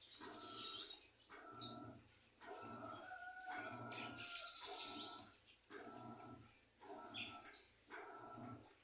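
Small songbirds chirping and twittering around sugar-water feeders, with short high chirps and quick sweeps. A lower, repeated sound comes about once a second underneath.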